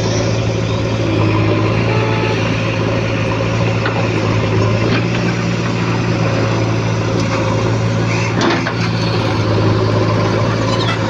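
Heavy diesel engine of earth-moving machinery running steadily with a constant low hum, and a brief knock about eight and a half seconds in.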